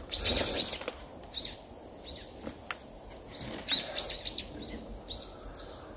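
A flock of birds chirping busily, in an uproar: many short high chirps that rise and fall, coming in quick bunches, with a few faint sharp clicks among them.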